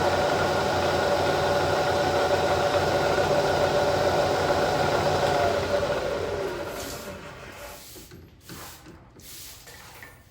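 Vertical milling machine's spindle motor running with a steady whine, then switched off about five to six seconds in and spinning down, its pitch falling as it coasts to a stop.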